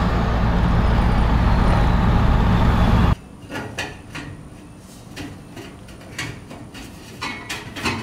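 7.3 L Powerstroke V8 turbo-diesel running hard under load, straight-piped with the exhaust tip off, with a faint falling turbo whistle. It cuts off abruptly about three seconds in, leaving a much quieter stretch with scattered clicks and knocks.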